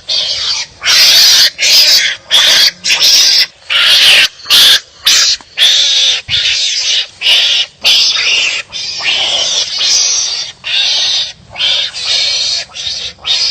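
Wild animals fighting and calling at each other in a rapid series of harsh, loud calls, about two a second.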